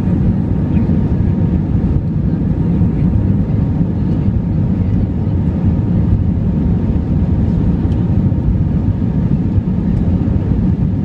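Steady, dense low rumble of an Airbus A320-200's jet engines and airflow, heard from inside the passenger cabin during takeoff.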